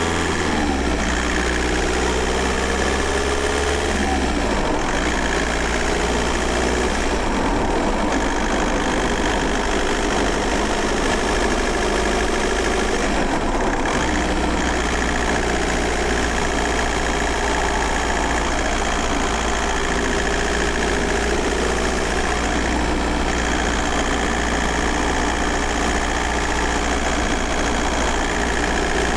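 VW Golf 4's 1.9 TDI four-cylinder turbodiesel (AJM) running. Its pitch drops in the first second as the revs fall, then holds mostly steady, with short breaks about four and fourteen seconds in.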